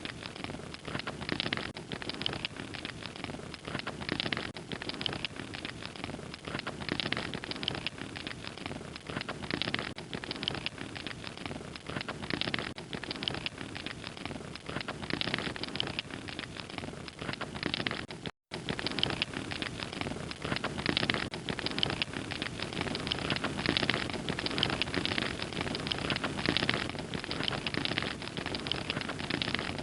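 Wood fire crackling and popping steadily, a dense run of small snaps over a soft hiss. The sound cuts out completely for a split second about eighteen seconds in.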